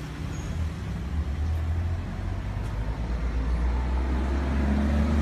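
Dog growling: a deep, continuous rumble that slowly grows louder.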